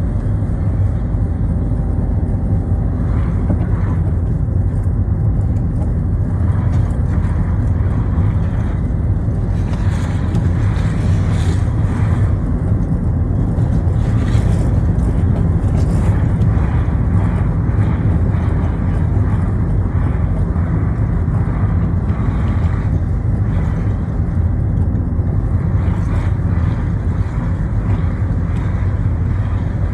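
Citroën Xsara driving on wet roads: a steady low rumble of engine and tyres, with brief hissing swells now and then, most between about a third and halfway through.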